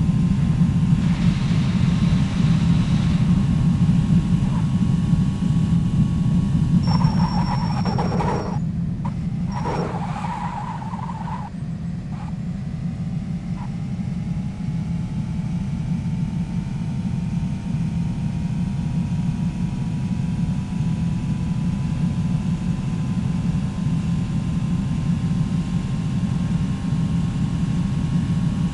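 Steady low rumble of a moving motor vehicle, with faint whining tones that slowly drift in pitch.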